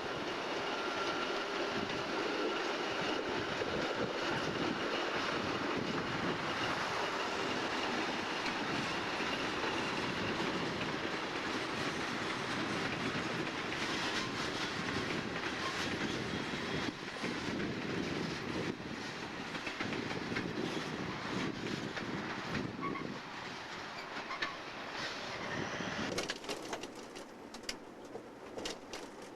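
A train of coal cars pulled by USAF locomotive 4040 rolling past. Its wheels make a steady rumble on the rails, with a faint squeal early on. Near the end, sharp clicks from the wheels crossing rail joints come through as the sound fades.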